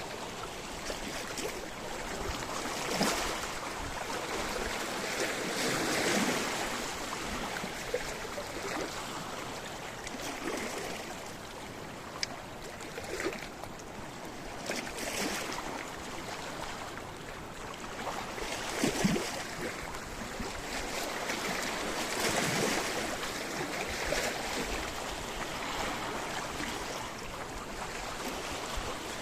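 Sea waves washing onto a rocky shore, swelling and splashing every few seconds, loudest in a splash about nineteen seconds in.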